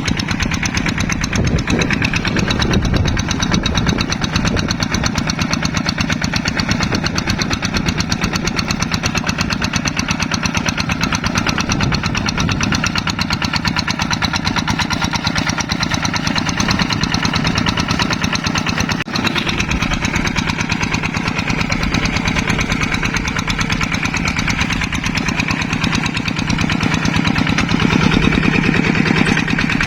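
Yanmar rice-paddy hand tractor's diesel engine running steadily with a rapid, even chugging beat.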